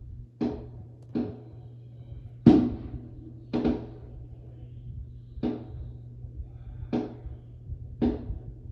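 A series of about seven sharp bangs, each dying away quickly, coming at uneven intervals over a steady low hum; the second bang, about two and a half seconds in, is the loudest.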